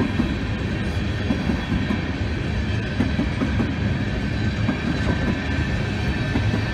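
Steel wheels of BNSF coal hopper cars rolling past on the track, a steady continuous train sound.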